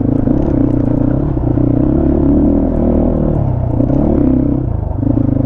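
250 cc motorcycle engine running as the bike is ridden, with some clatter; the engine note dips for about a second after three seconds in and picks up again.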